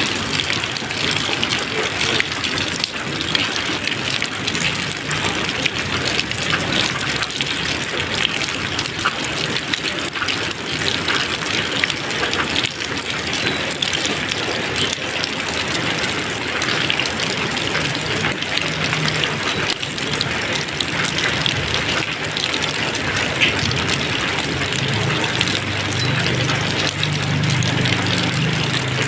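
Steady rain falling, a dense even hiss with fine patter of drops and no thunder.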